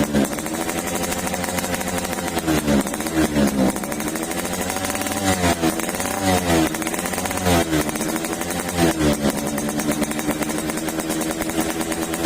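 Suzuki Fiz R two-stroke moped engine and exhaust idling, with repeated throttle blips that send the pitch up and back down about eight times.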